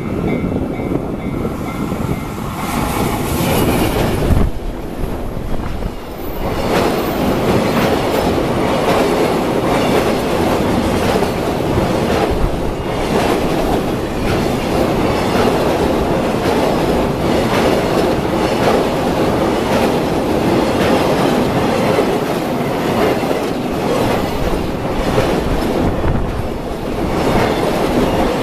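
JR Freight EF210 electric locomotive hauling a long container freight train past at speed, loudest about four seconds in as the locomotive goes by. Then comes a steady clickety-clack of the container flatcars' wheels over the rail joints, with some wheel squeal.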